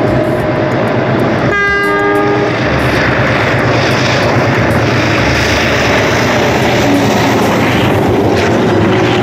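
A diesel locomotive sounds one short horn blast, lasting about a second, starting about a second and a half in. Under it runs the steady loud noise of the train approaching and passing close by.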